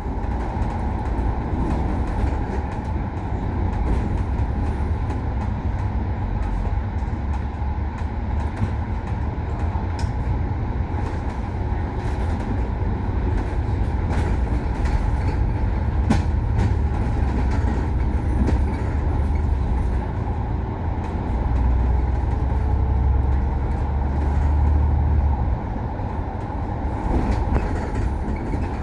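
A bus on the move: a steady low engine drone with road noise and light rattles. The drone deepens and gets louder for a few seconds near the end.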